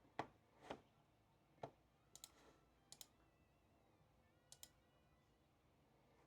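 Faint, scattered sharp clicks and taps at a desk, some coming in quick pairs, over a quiet room.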